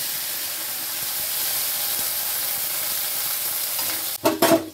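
Sliced bitter gourd frying in hot oil in a kadai, a steady sizzling hiss just after the pieces are dropped in. A few short, louder scrapes or knocks come near the end.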